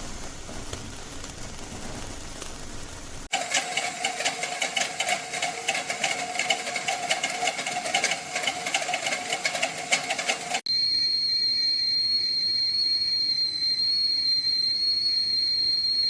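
Willow & Everett stainless steel whistling tea kettle on the stove coming to the boil. It hisses, then crackles with a low tone, then gives a steady high-pitched whistle from about 11 seconds in.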